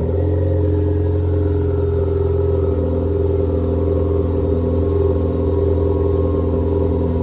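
Ford Focus ST's turbocharged 2.0-litre four-cylinder, breathing through a Cobb 3-inch turbo-back exhaust with downpipe and intake, running at a steady engine speed with a deep, even exhaust note.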